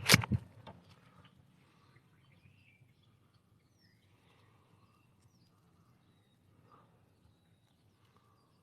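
A sudden loud clatter at the start, followed by a few lighter knocks within the next second. After that it is quiet, with faint short chirps.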